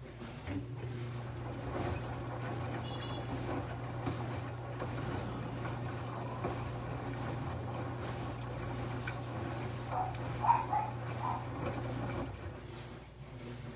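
LG 11 kg washing machine running with a steady low hum that starts about half a second in and stops near the end. A few short higher-pitched sounds come around ten seconds in, one of them sharp and loud.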